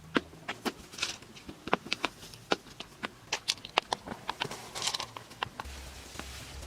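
Irregular sharp taps and clicks of hand work, with a short scraping sound about a second in and another near five seconds. A low hum comes in near the end.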